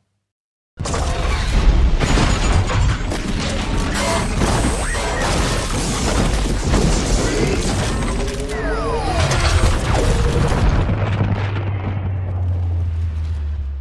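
Mechanical transformation sound effect: after a moment of silence, a dense run of clanking, ratcheting and whirring with sliding pitch glides over a low rumble. A steady low hum joins near the end before it fades.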